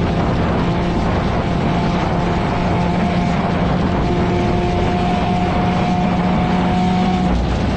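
A vehicle engine running at a steady speed: a constant drone under a dense, even rushing noise, with the engine tone dropping away near the end.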